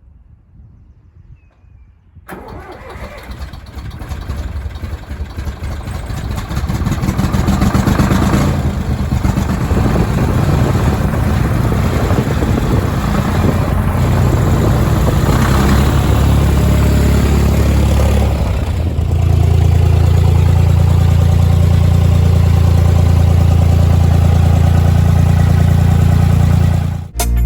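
Diesel tractor engine starting about two seconds in, growing louder over several seconds and then running steadily, settling into a steadier low hum later on before cutting off abruptly near the end.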